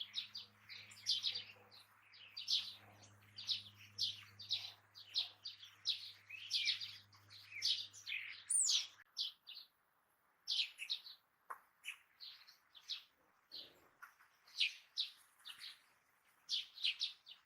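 Songbirds chirping in quick, short high notes, thickly overlapping for the first nine seconds or so, then sparser. A faint low hum sits underneath and stops about nine seconds in.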